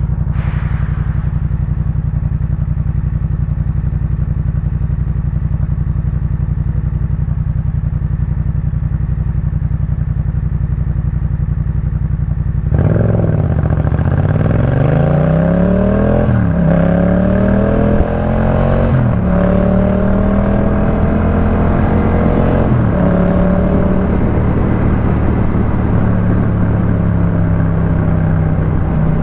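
Yamaha MT-07 689 cc parallel-twin through a Jeskap K4 full exhaust. The engine runs at a steady note, then about halfway through opens up and accelerates, its pitch climbing and dropping back three times as it shifts up through the gears, before settling into a steady cruise.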